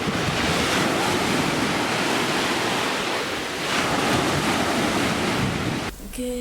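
Sea surf washing onto a beach with wind buffeting the microphone: a steady rush that swells twice, then cuts off suddenly near the end.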